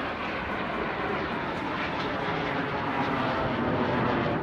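Aircraft flying over the airshow crowd, its engine noise a steady rush that grows a little louder toward the end.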